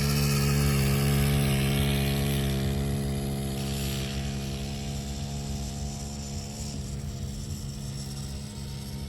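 An engine running at a steady speed, its sound slowly fading.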